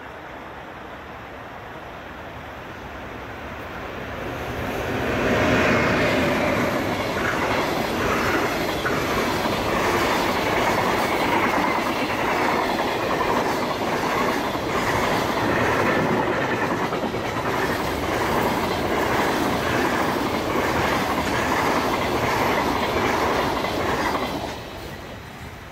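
Freight train passing: it approaches, runs by loudly for about twenty seconds with the wheels clattering over the rail joints, then fades quickly near the end.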